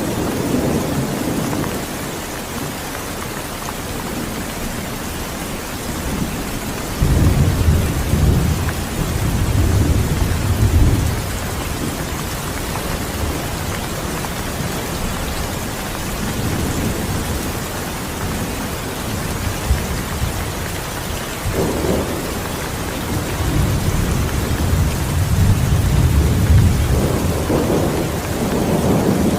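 Steady rain with thunder: a long low rumble of thunder from about seven seconds in, and another that starts a little past twenty seconds and carries on to near the end.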